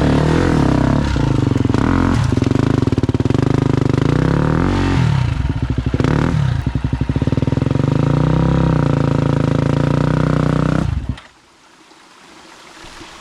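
Husqvarna FE250 enduro motorcycle's single-cylinder four-stroke engine running with the revs rising and falling, then cutting off suddenly near the end.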